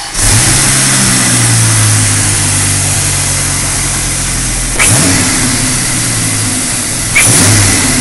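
Dodge Viper V10 engine in a Dodge Challenger, bursting into loud running right at the start and then idling, blipped twice with the throttle, about five and seven seconds in.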